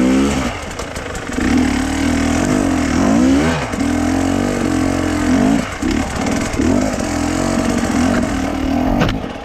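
Motorcycle engine running under load, its revs rising and falling several times.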